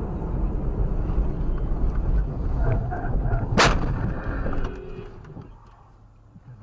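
Vehicle collision heard from inside a car: steady low road and engine rumble, then one sharp, loud bang of the impact about three and a half seconds in, after which the rumble dies away.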